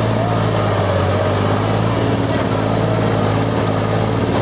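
Tractor diesel engine running steadily and loudly, its pitch holding even throughout.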